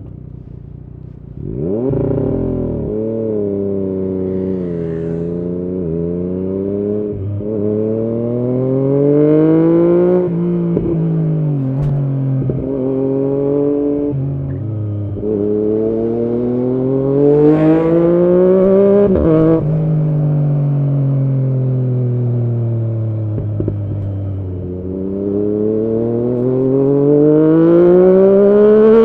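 Yamaha MT-09's inline three-cylinder engine through an Arrow exhaust, pulling hard under acceleration. The pitch climbs and drops sharply about three times as gears change, falls away slowly as the bike slows, then climbs again near the end.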